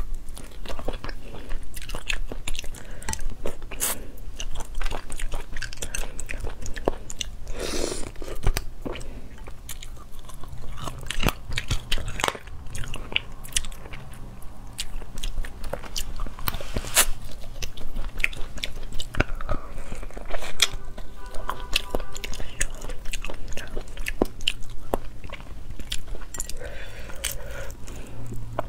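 Close-miked mouth sounds of eating spicy braised rabbit head: repeated biting, chewing and crunching of meat and small bones, full of sharp little clicks.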